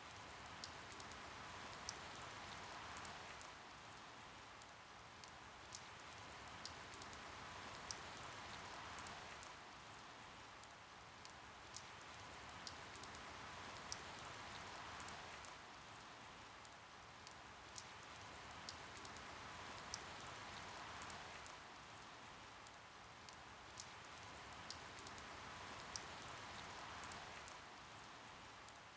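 Soft, steady rain falling, with scattered sharp drop ticks on top of the hiss. The hiss swells and eases about every six seconds.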